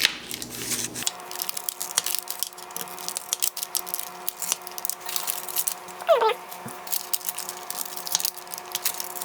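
Rapid small clicks and taps of a pizza cutter scoring rolled cookie dough into squares on a parchment-lined baking pan, over a faint steady hum. About six seconds in, a dog gives one short falling whine.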